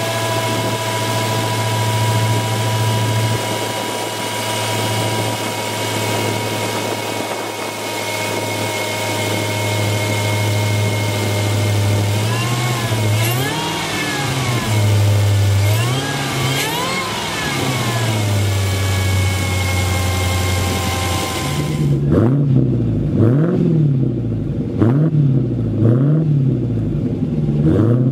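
2022 Dodge Challenger SRT Hellcat's 6.2-litre supercharged Hemi V8 idling, revved twice about halfway through. After a sudden change in the sound, like a cut, it is blipped about five times in quick succession, roughly once a second.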